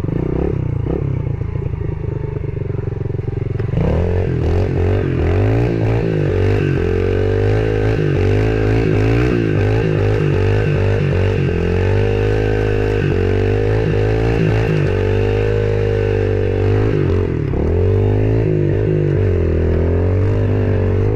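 Yamaha TT-R110E pit bike's small four-stroke single-cylinder engine running while ridden, its pitch rising and falling as the throttle is worked. It picks up and gets louder about four seconds in.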